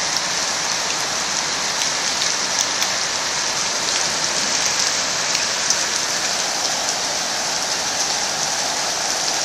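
Heavy hail falling steadily: a dense even hiss of hailstones striking, with many small sharp ticks from individual stones.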